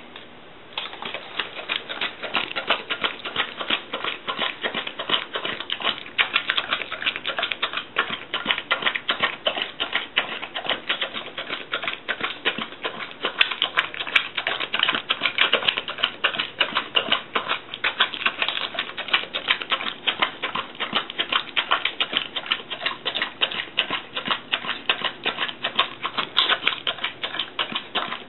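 Bull terrier eating natto rice: rapid, continuous smacking and chewing clicks, several a second, starting about a second in.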